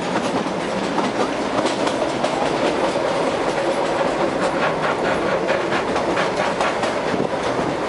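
Kalka–Shimla narrow-gauge toy train running, heard from inside a passenger coach: a steady rumble and rattle, with runs of wheel clicks over the rail joints.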